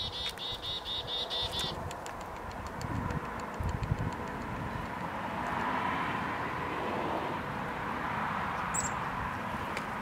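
A bird calling a quick run of about eight short, evenly repeated notes over the first couple of seconds, then wind rushing across the microphone, growing stronger about halfway through.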